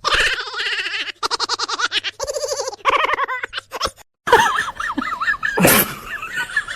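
Laughter in quick repeated bursts, then after a brief break a wavering, warbling voice-like sound, with a short loud burst of noise about a second later.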